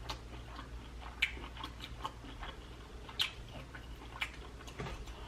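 Eating shell-on prawns close to the microphone: scattered sharp little clicks and crackles, about five of them, roughly a second apart.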